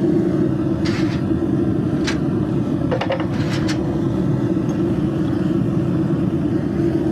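Forge running with a steady roar and a constant low hum while it heats a piece of leaf-spring steel. A few short clicks come between about one and four seconds in.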